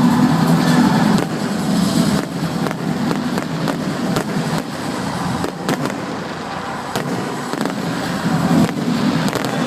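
Fireworks going off: a string of sharp bangs and crackles, irregularly spaced, over a steady low din.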